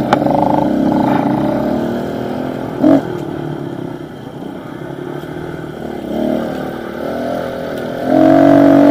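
Pit bike engine running as it is ridden: the revs ease off through the middle, with a short sharp blip about three seconds in. The engine climbs again and pulls loud and steady near the end.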